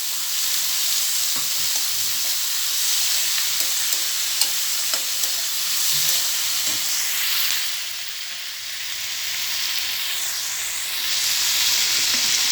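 Chopped tomatoes and chilies sizzling and frying in hot oil in a frying pan, with faint clicks of stirring. The sizzle eases off for a moment about two-thirds through, then comes back stronger near the end.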